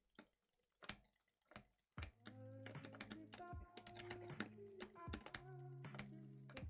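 Faint sharp clicks like keyboard typing, a few scattered ones at first and then quicker. About two seconds in, steady low tones with shifting higher notes start up beneath them.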